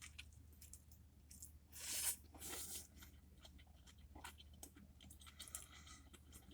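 A person biting and chewing a crispy fried chicken sandwich with spicy pickles, faint, with two louder crunches about two seconds in and soft chewing clicks after.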